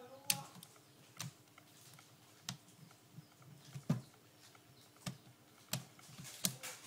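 Sharp plastic clicks from an Acer netbook keyboard being worked on, about eight of them, irregularly spaced, with a faint low hum beneath.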